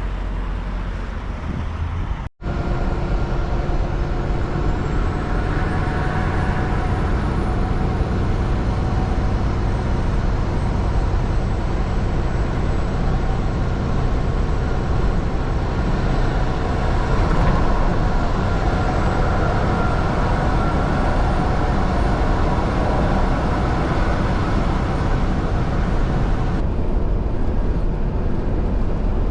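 Semi-truck driving: steady engine drone and road noise, with a brief cut in the sound about two seconds in.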